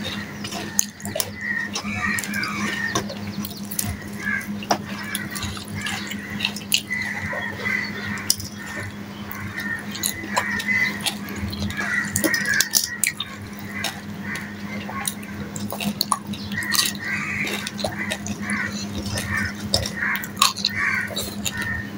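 Close-up eating sounds: wet chewing and lip-smacking as a man eats rice and fried hilsa fish by hand, with many small clicks, over a steady low hum.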